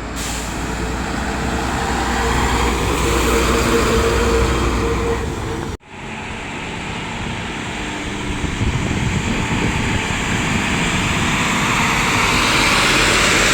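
Heavy truck engine running with a steady drone. About six seconds in there is an abrupt cut to another vehicle sound, a rushing engine and road noise that grows louder toward the end.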